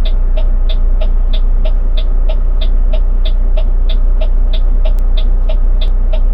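Semi truck's diesel engine running with a steady low rumble heard from inside the cab, with a regular tick about three times a second.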